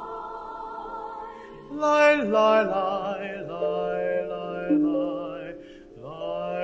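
A group of voices singing a slow song in several parts, holding long notes with vibrato; a louder new phrase begins about two seconds in.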